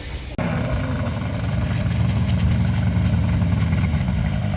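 An engine running steadily with a low drone, cutting in suddenly about half a second in.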